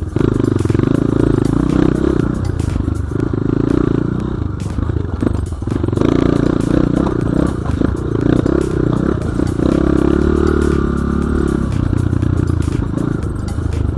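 Off-road motorcycle engine running under load, revving up and down as it rides over rough forest ground, with frequent clattering knocks.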